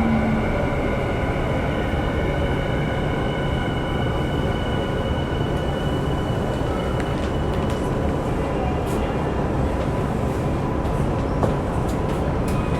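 Minatomirai Line electric commuter train running underground, heard from inside the car: a steady rumble of wheels on rail with a high electric motor whine that fades out about two-thirds of the way through.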